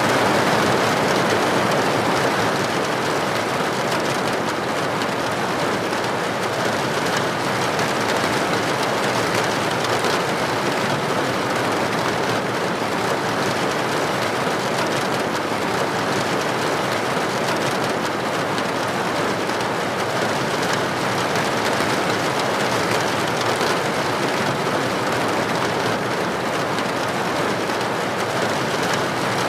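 Steady, dense rain falling on a window or roof, an even rushing hiss.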